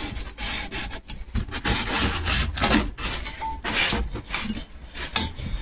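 Metal parts and tools clinking and clattering as they are handled, in irregular short knocks over a low steady hum.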